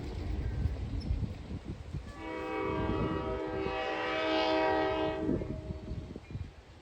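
Locomotive air horn sounding one long blast of about three seconds, a chord of several notes, over a low rumble.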